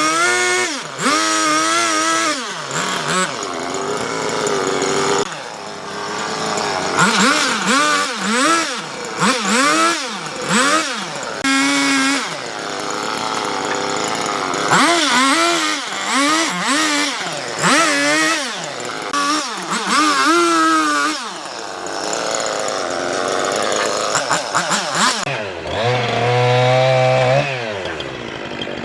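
Chainsaw cutting hardwood, its engine pitch rising and falling over and over as it is throttled up and drops under load in the cut.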